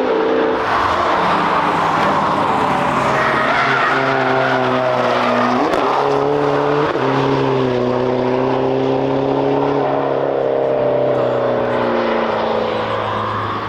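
Car engine running hard at track speed, its pitch holding high and briefly dipping and climbing again about six seconds in, over a heavy hiss of tyre noise and squeal.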